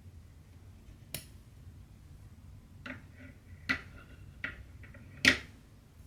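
Five sharp little clicks and taps over a low steady room hum, the loudest one near the end, from hand cross-stitching: needle, thread and tools handled at the work.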